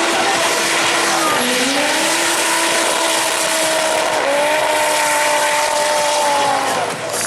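Turbocharged Audi 2.2-litre 20-valve inline-five engine held at high revs in a drift, its pitch dipping and climbing back about a second in, stepping at about four seconds, and falling off near the end, over a steady hiss of sliding tyres.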